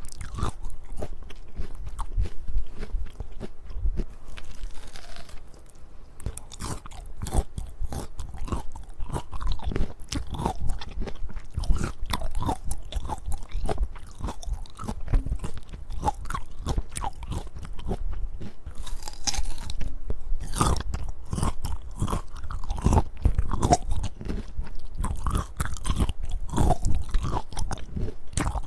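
Close-up crunching and chewing of crisp peaches: repeated bites into firm fruit and steady, irregular crunching as it is chewed.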